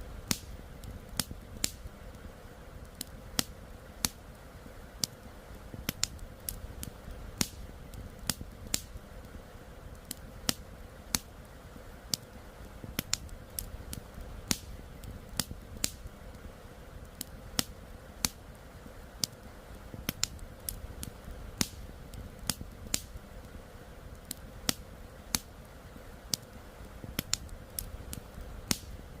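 Wood campfire crackling: sharp, irregular pops about one or two a second over the steady rush of a flowing river.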